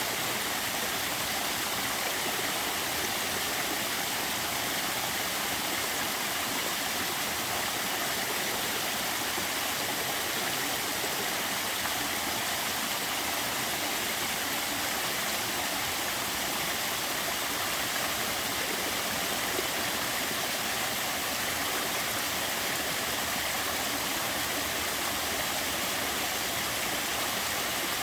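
Small waterfall falling steadily at a somewhat low flow, a gentle, even rush of water with little low rumble.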